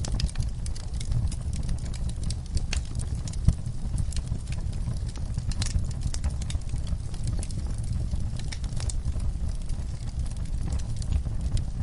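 Wood fire in a fireplace crackling: irregular sharp pops and snaps over a steady low rumble of the flames, with one louder pop about three and a half seconds in.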